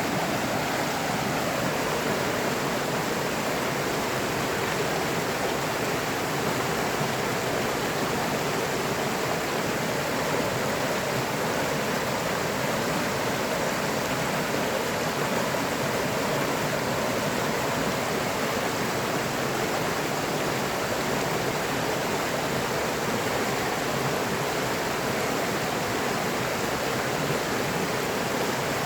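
A river or stream rushing steadily over rocks, an even continuous water noise with no changes.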